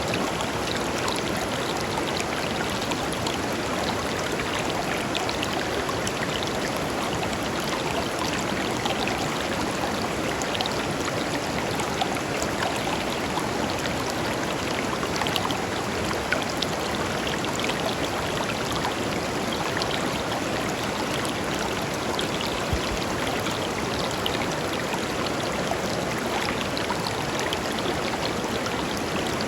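A river flowing steadily over stones, with a constant rush and small splashes flickering through it.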